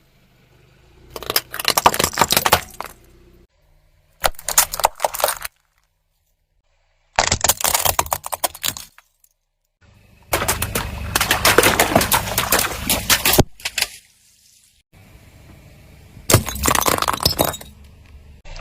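Objects cracking and crunching as they are crushed under a car's tyre, in five separate bursts of brittle breaking noise, each cut off abruptly. The longest burst comes in the middle.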